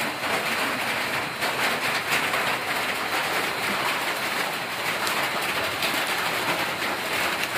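Steady pattering hiss of rain.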